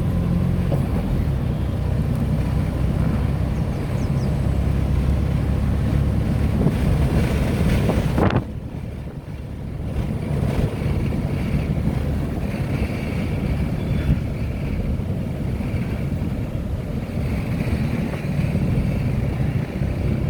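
Inside the cabin of a moving Tata Nano: its small engine and road noise run steadily. About eight seconds in there is a sharp click, then the noise drops suddenly for about two seconds before it comes back.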